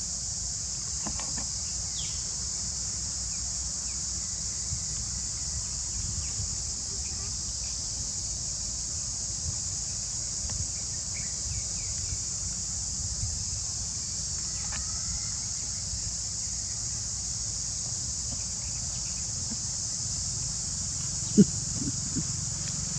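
Steady high-pitched drone of an insect chorus (cicadas or crickets) over a low rumble, with a few faint bird chirps. One sharp knock sounds near the end.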